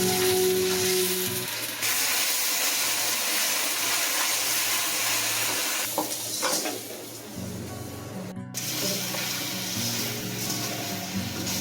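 A steady hiss under light background music, with abrupt edits about two seconds in and again past the middle.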